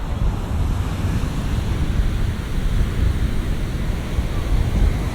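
Big ocean waves breaking in heavy shorebreak, a continuous loud wash strongest in the low end that swells up at the start, with wind buffeting the microphone.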